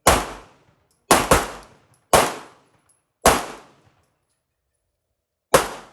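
Six shots from a 9mm semi-automatic pistol fired at an uneven pace: two close together about a second in, then single shots, the last after a pause of about two seconds. Each shot is a sharp crack with a short echoing tail.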